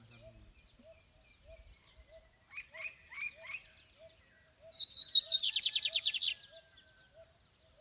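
Wild songbirds singing: a short run of falling whistled notes about two to three seconds in, then a loud, rapid trill lasting over a second about five seconds in. Under them a low call repeats about twice a second.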